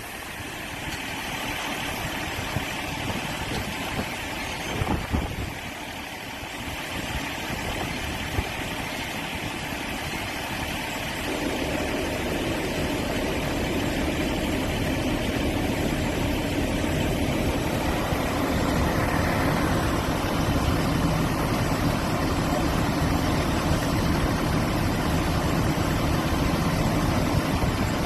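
A vehicle engine idling steadily, with a low hum that grows louder about eleven seconds in.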